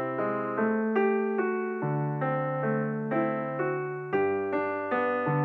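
Instrumental piano music: a melody of notes struck about two or three a second over held low bass notes.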